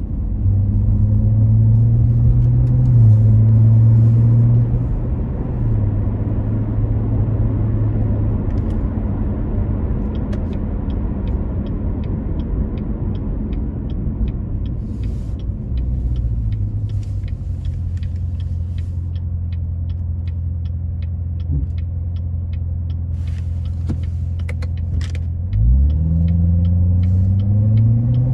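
The Corvette Z06's supercharged 6.2-litre V8, heard from inside the cabin, runs at low, steady revs while cruising, with a light regular ticking through the middle stretch. Near the end the revs climb sharply as it accelerates.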